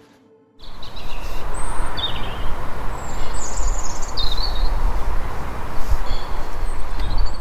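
Outdoor riverside ambience that cuts in about half a second in: a steady rushing noise with a low rumble, and small birds chirping now and then.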